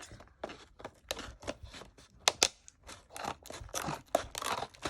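New product packaging being opened by hand, tearing and crinkling in a run of irregular sharp crackles and clicks.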